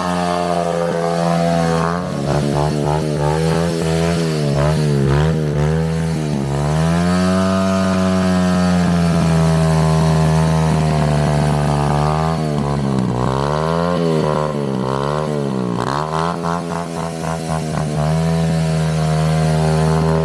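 Drift trike's dirt-bike engine running hard, with the revs swinging rapidly up and down as the throttle is worked. The engine holds a steady high pitch for a few seconds in the middle, then revs up and down again.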